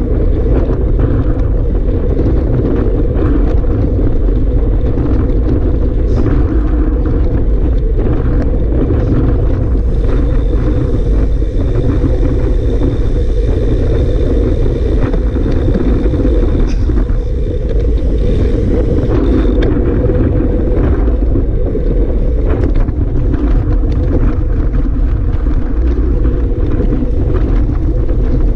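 Strong wind buffeting the microphone: a loud, steady low rumble with no break.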